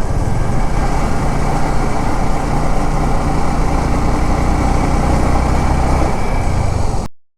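Motorcycle engine running at a steady speed under road and wind noise while riding. The sound cuts off suddenly near the end.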